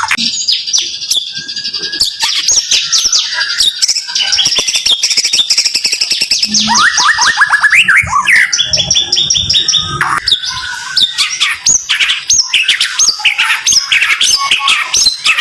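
White-rumped shama (murai batu) singing its rapid-fire 'tembakan' song: long runs of quick, sharp, repeated high notes, several to the second, broken by a few lower whistled phrases.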